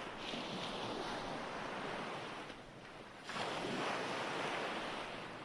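Ocean waves washing on a shore, a steady surf hiss. It eases off about two and a half seconds in, then swells again with the next wave just after three seconds.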